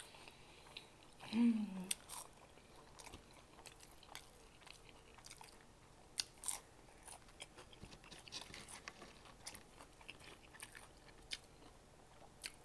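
Close-miked chewing and biting of McDonald's Chicken McNuggets: many small, irregular wet mouth clicks and light crunches. A short low hum from the eater about a second and a half in.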